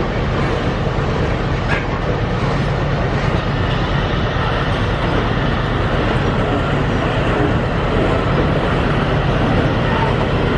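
Heavy iron-ore freight train rolling past with a steady low rumble.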